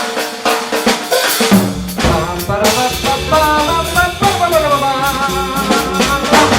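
Live jazz band playing an instrumental passage: drum kit with snare and bass drum, under pitched horn lines that slide down together partway through.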